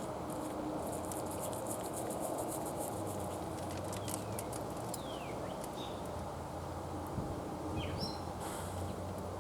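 Outdoor ambience with a steady low background noise, a few short bird chirps falling in pitch around four and five seconds in, and fine crackling ticks near the start.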